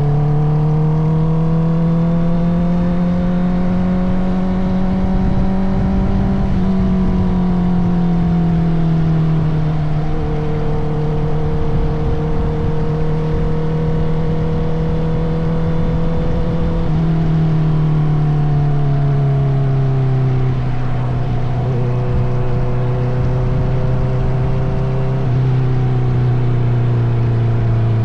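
Honda CBR650R inline-four engine through an Akrapovic titanium exhaust, running steadily under way on the road. Its note climbs gently over the first few seconds, eases down about a quarter of the way in, holds steady, then drops again past the middle as the throttle is eased.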